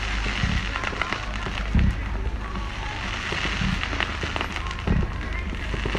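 Fireworks going off: a dense run of crackling pops with three deep booms, the first about half a second in, another near two seconds and the last near five seconds.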